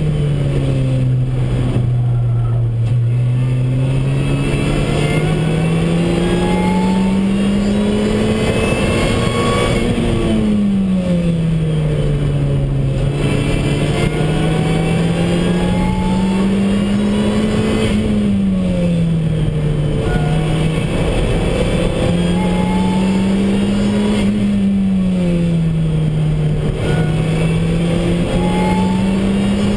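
Lotus Exige S engine heard from inside the cabin while lapping a race track, its note climbing slowly under acceleration and falling away as the car slows, three times over, with steady road and wind noise underneath.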